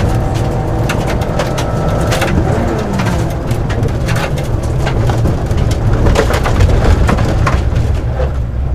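Car driving on a gravel forest road: a steady low rumble of engine and tyres, with frequent sharp ticks of stones striking the underside, and a pitch that falls briefly about two seconds in.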